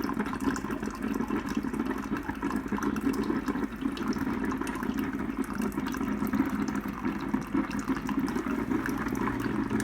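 Water running steadily, starting and stopping abruptly.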